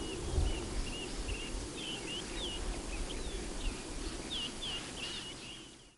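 Small birds giving repeated short, high chirping calls, several a second, over a low rumble. The sound fades out near the end.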